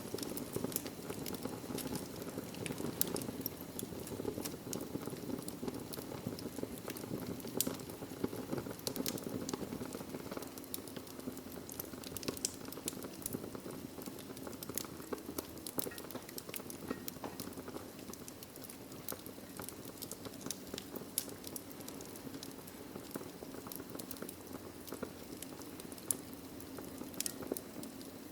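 Wood fire burning in a fireplace: a steady low rush of flames with frequent irregular sharp crackles and pops from the logs.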